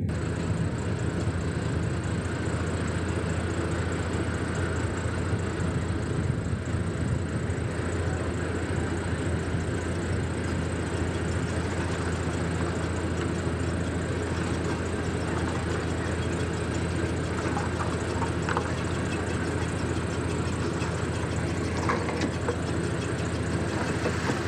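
Diesel engine of heavy earthmoving machinery running steadily at a constant pitch, with a few faint short squeals about two-thirds of the way through and near the end.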